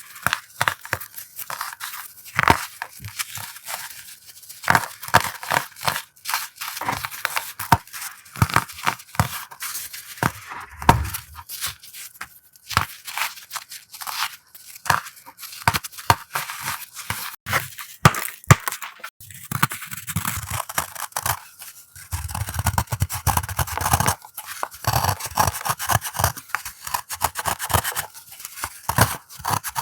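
Crumbly powder blocks being crushed close to the microphone: a run of dense, crisp crackling and crunching with a slight squeak. The crackling gets denser, with some soft low thuds, in the last third.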